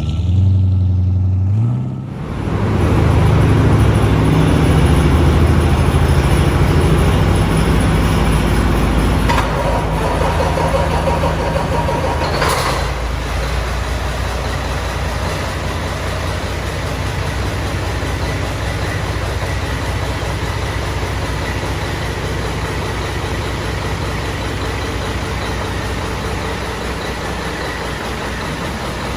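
Caterpillar C-12 inline-six diesel engine starting up, rising in pitch and catching within the first two seconds, then running steadily. There is a short burst of hiss about twelve seconds in, and the engine eases toward a steady idle.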